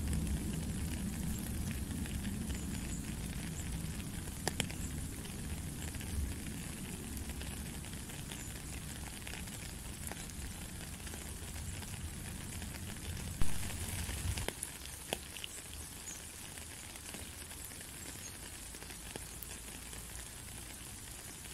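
Steady rain falling on a puddled gravel path, a continuous patter with scattered individual drops, under a low rumble that drops away about two thirds of the way through. One sharp, louder tap sounds just before the rumble fades.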